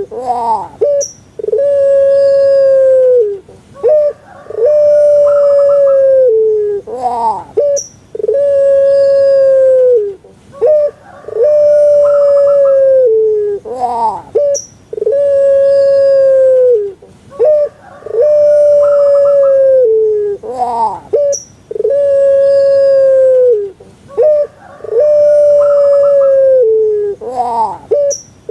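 Puter pelung, a domesticated dove (Streptopelia risoria) kept for its voice, cooing over and over. Each coo is a few short rising notes and then one long held note that drops in pitch at its end, repeating about every three and a half seconds.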